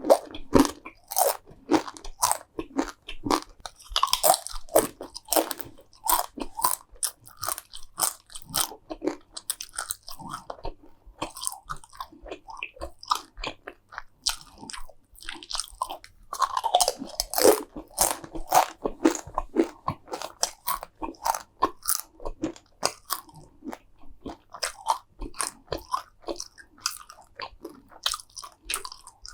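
Close-miked eating of crunchy food: a steady run of crisp crunches and chewing, with louder bites about 4 and 17 seconds in.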